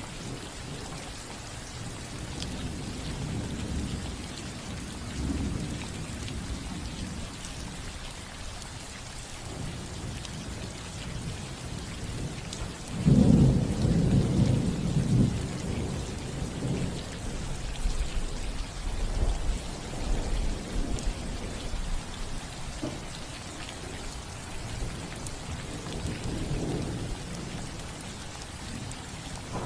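Steady rain falling on a roof during a thunderstorm, with rolling thunder: a loud low rumble about halfway through, and fainter rumbles before and after.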